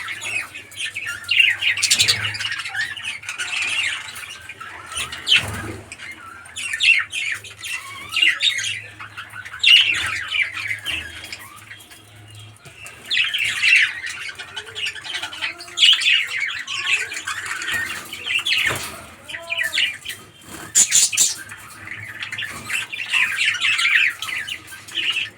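Birds chattering and squawking in recurring bursts every few seconds.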